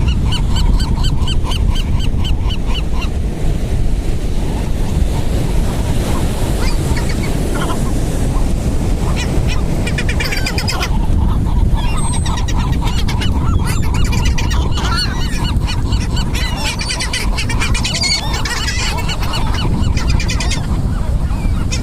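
A flock of gulls calling, with a quick run of repeated calls at the start and many overlapping calls through the second half, over a steady rumble of surf and wind.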